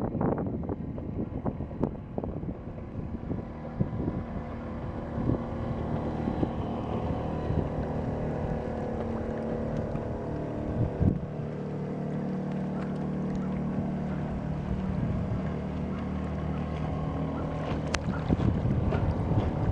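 Coleman 2.6 hp outboard motor running steadily as it pushes a wooden canoe through the water, with wind buffeting the microphone. There is one knock about halfway through, and the engine note is steadier and stronger after it.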